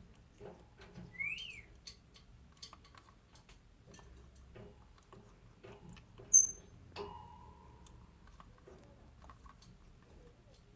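African grey parrot giving a rising-and-falling whistle, then a short sharp high whistle and a brief lower note, among scattered soft clicks.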